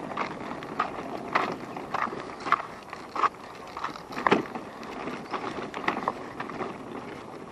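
Wheels rolling over a rough path: a steady rumble with irregular clicks and crunches, the loudest about four seconds in.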